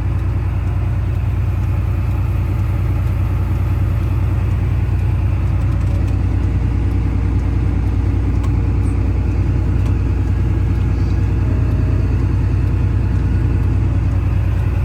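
Tractor engine running steadily under load while the grain cart unloads corn, a constant low drone.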